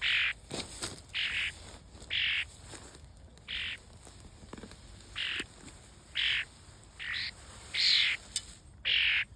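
A bird calling over and over, short calls about once a second.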